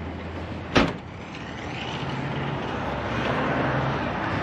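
A single sharp thump a little under a second in, then a pickup truck's engine and road noise building steadily.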